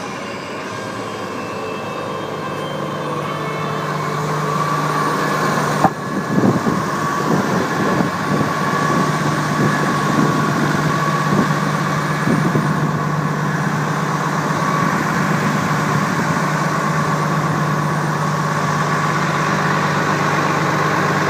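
Freightliner tanker truck's engine running steadily, growing louder over the first six seconds. A sharp knock comes about six seconds in, followed by a few seconds of uneven clattering before the steady running resumes.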